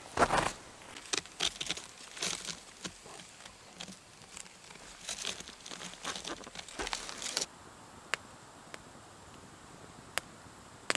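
Close rustling and crinkling handling noises in quick clusters, then an abrupt change to a quieter background with a few isolated sharp clicks.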